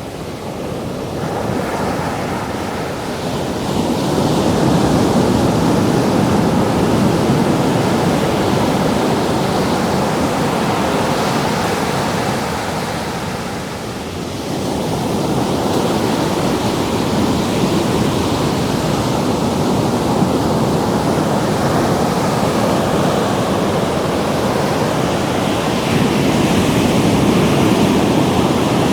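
Ocean surf washing in at the water's edge, a continuous rush that swells, eases off about midway, then builds again. Some wind on the microphone.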